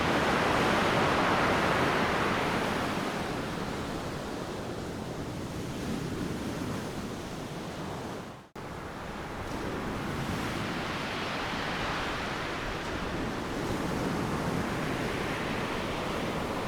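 Ocean surf breaking and washing onto a beach, a steady rush that swells and eases with each wave. There is a momentary dropout about halfway through.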